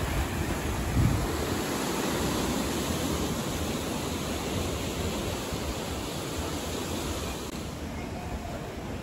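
Sea surf washing on the shore as a steady rush, with wind buffeting the microphone in low gusts and one low thump about a second in.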